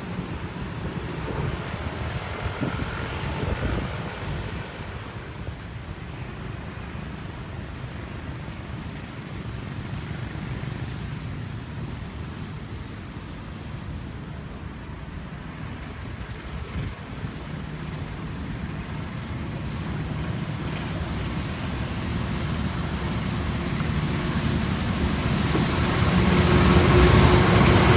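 Steady street traffic, cars and motorbikes passing, with a heavier, rising rumble in the last several seconds as a diesel train approaches the viaduct and a steady engine tone comes in near the end.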